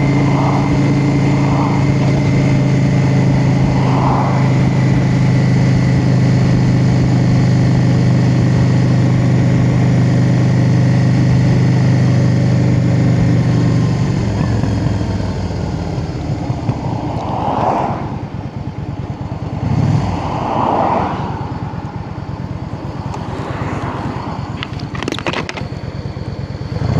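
Motorcycle engine running at a steady cruising note, then easing off about halfway through and settling into a lower, uneven idle.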